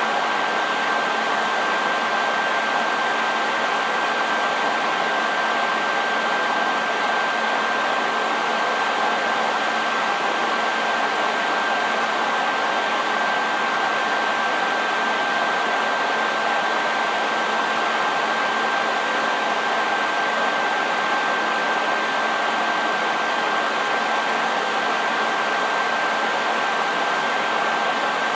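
Hair dryer running continuously: a steady, even rush of air with a constant high whine from the motor over it, unchanging throughout.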